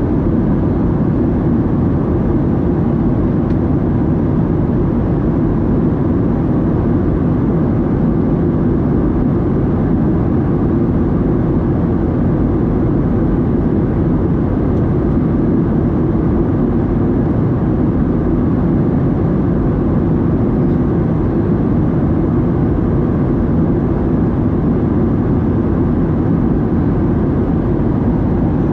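Steady low drone of a Boeing 737-700's CFM56-7B jet engines and airflow, heard from inside the passenger cabin, even and unbroken throughout.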